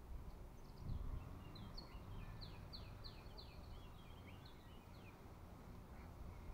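A songbird singing a quick run of short falling notes for about four seconds, over a low rumble of wind on the microphone, with a dull low bump about a second in.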